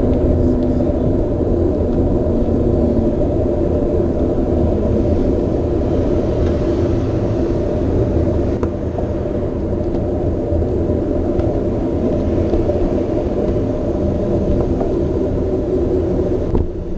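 Steady, loud rumble of riding a Trek Marlin 7 mountain bike: tyre noise and wind buffeting on a GoPro Session camera's microphone. It eases slightly near the end.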